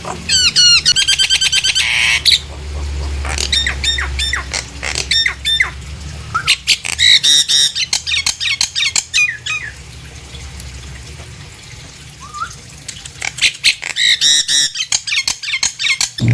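Nias hill myna calling loudly: rapid runs of sharp, ringing whistles and squawks in four bouts, with short pauses between them.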